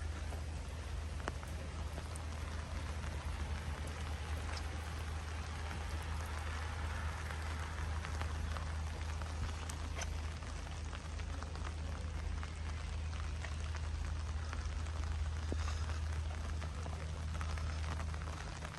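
Steady rain falling, with scattered sharp drop ticks over an even hiss and a low steady rumble underneath.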